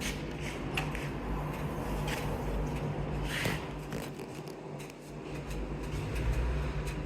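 Ferrari F430's V8 idling as a low, steady hum, under rustling and light clicks of handling close by.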